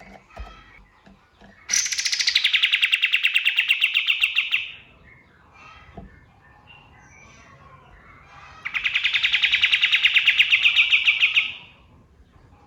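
Male kapas tembak songbird singing two long, rapid, rattling trills of about three seconds each, with a pause of about four seconds between them and faint chirps of other birds behind.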